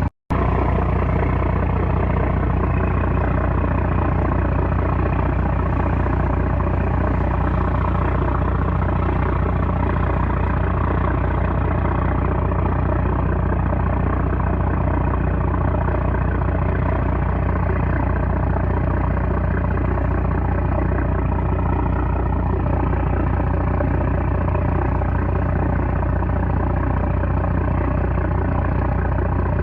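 The trawler's 330-horsepower engine running at a steady, unchanging pace, a loud, even drone with a deep low hum. The sound drops out for a split second just after the start.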